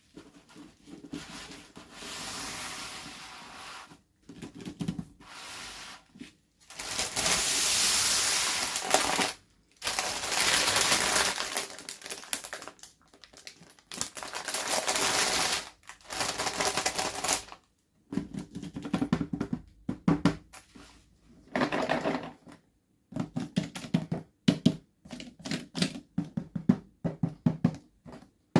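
Close-up handling of plastic toy packaging and doll parts: several stretches of crinkling and rustling lasting a few seconds each, then quick runs of small clicks and taps in the second half.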